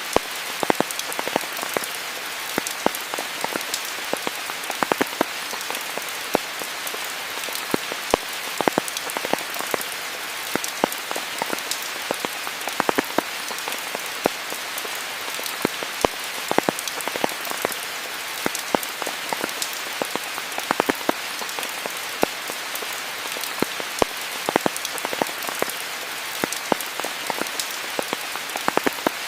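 Steady rain falling, an even hiss with many close individual drops striking sharply and irregularly throughout.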